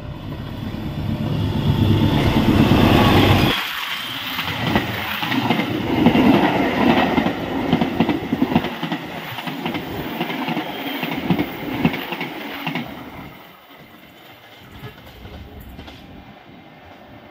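Passenger train hauled by a CC206 diesel-electric locomotive passing fast: the locomotive's engine is loud for the first three and a half seconds and drops away as it goes by, then the coaches' wheels clatter rhythmically over the rail joints, fading as the train moves off in the last few seconds.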